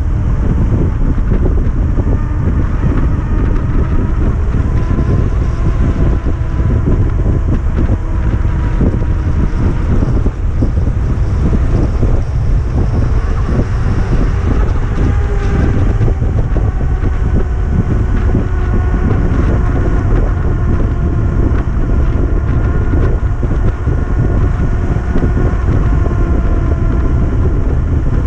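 Ebike ridden on a 3000 W hub motor driven by a Fardriver ND72260 controller at 72 V: the motor's whine, several tones together, slowly rises and falls with speed. Heavy wind buffeting on the microphone and frequent short knocks and rattles run underneath.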